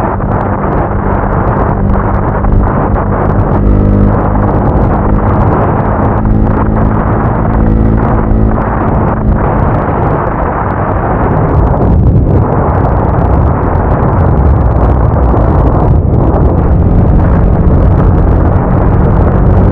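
Motorcycle engine running while riding, its note shifting up and down a few times with the throttle, over a heavy low rush of wind and road noise.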